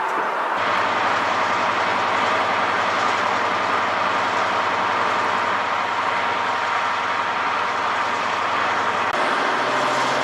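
A train running, a steady mechanical noise with a low hum underneath that shifts in pitch about nine seconds in.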